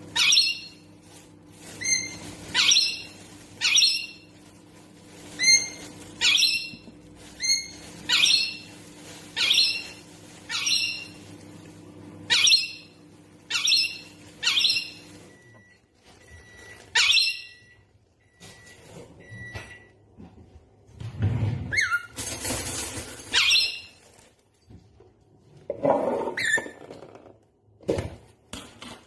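A parrot repeats the same short, high call about once a second for roughly fifteen seconds over a steady low hum. After that come scattered shorter calls, faint beeps and a brief noisy burst.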